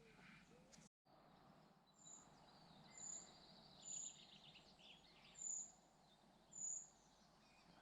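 Faint, thin, high-pitched bird calls: five short notes spaced about a second apart over quiet outdoor background.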